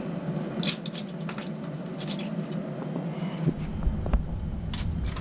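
Steady low hum of a running air-conditioning unit, with scattered light clicks and scrapes of small metal parts being handled. A low rumble comes in about three and a half seconds in.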